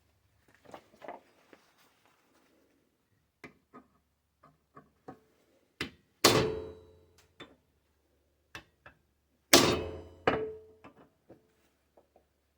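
Small clicks and knocks of metal parts being handled, then two sharp hammer blows about three seconds apart, each ringing briefly, with a lighter knock just after the second: knocking the old pin out of a pedal handle clamped in a vise.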